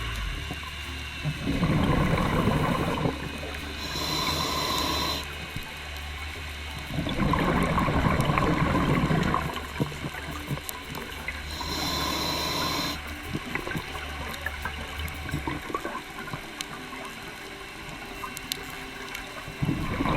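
Scuba diver breathing through a regulator underwater: twice a burst of exhaled bubbles, each followed by the shorter hiss of an inhale. The breathing then falls quieter for the last seven seconds, with a thump near the end.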